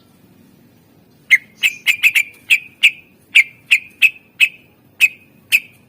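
Green leafbird (cucak ijo) singing a run of short, sharp, loud notes, each dropping slightly in pitch, about three a second, starting a little over a second in.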